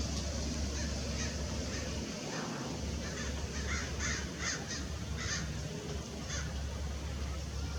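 Bird giving a series of short, harsh calls, bunched most densely about halfway through, over a steady low rumble.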